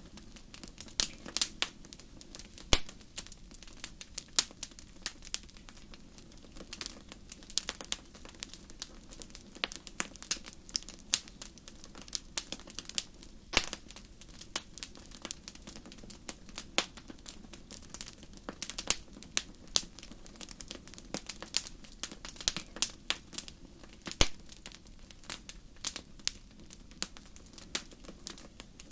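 Wood fire crackling: irregular sharp pops and snaps, several a second, some much louder than others, over a low steady noise.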